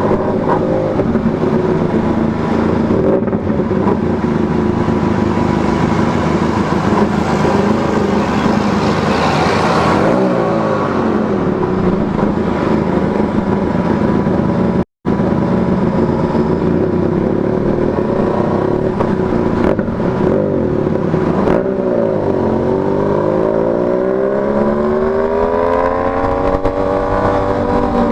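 Motorcycle engine running under way over a rush of wind noise. After a brief cut in the middle, its pitch dips, then climbs steadily for several seconds as it accelerates, and falls near the end at a gear change.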